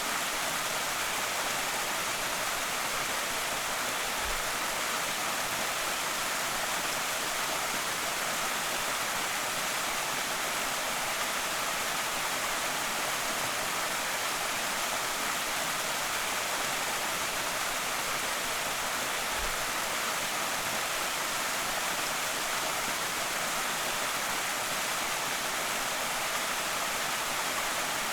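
Creek waterfall pouring steadily: a constant, even rush of falling water.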